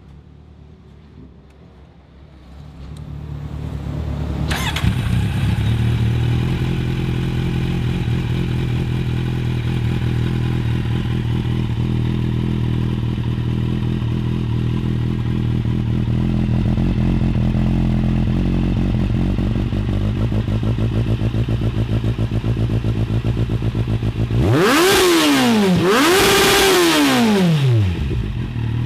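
Kawasaki Z800's inline-four engine, breathing through a Yoshimura R77 slip-on exhaust, starts up about four seconds in and settles into a steady idle. Near the end come two quick throttle blips, the pitch rising and falling each time.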